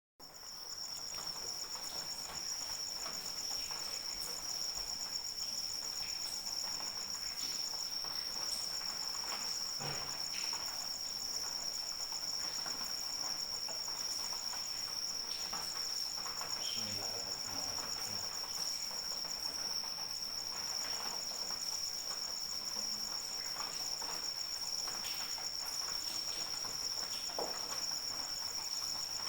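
Crickets chirring without pause: one steady high trill, with a second, slightly higher pulsing trill that stops briefly a few times. Beneath them is a faint patter of light rain. The sound fades in at the start.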